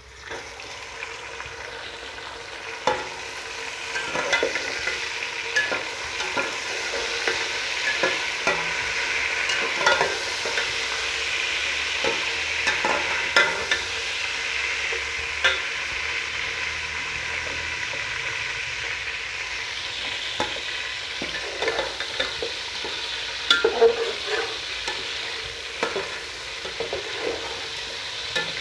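Chicken pieces frying in hot oil with fried onions, a steady sizzle that builds over the first few seconds. A spoon stirs the pot throughout, with scattered knocks and scrapes against its sides and a quick run of knocks near the end.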